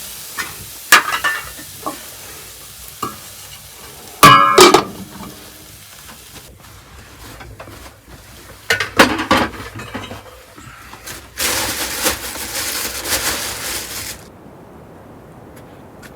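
Cooking sounds: a utensil stirring and scraping in a metal pot or pan while food sizzles, with a loud ringing metal clink about four seconds in and a few seconds of steady hissing near the end.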